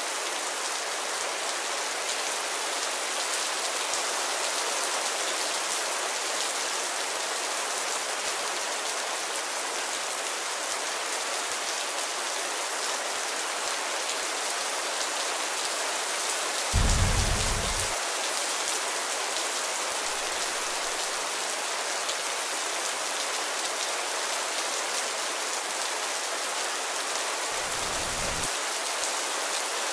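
Steady rain falling, an even hiss throughout. A short low rumble about 17 seconds in is the loudest moment, with fainter low bumps near 20 and 28 seconds.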